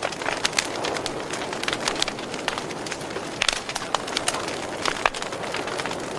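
Wood fire crackling in a fireplace: irregular sharp pops and snaps, several a second, over a steady rush of burning flames.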